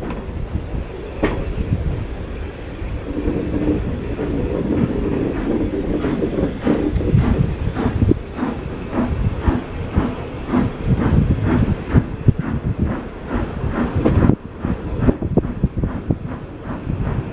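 Train running on the rails, with a steady low hum for a few seconds and then a regular rhythm of knocks, about two or three a second, from about eight seconds in.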